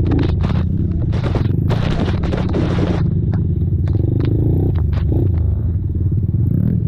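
Racing ATV engines running hard and steady, with many sharp knocks and scraping clatter over them.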